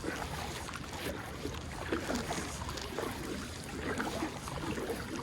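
Kayak paddle strokes dipping and splashing in shallow river water, over a steady rush of water and air noise.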